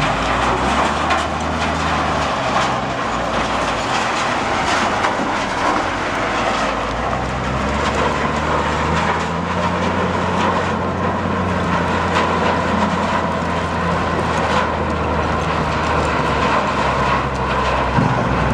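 Mobile trommel screen running: a steady low motor hum under a dense, continuous rattle of material tumbling in the rotating drum.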